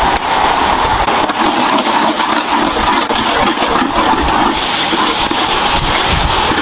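Loud, steady rushing of water.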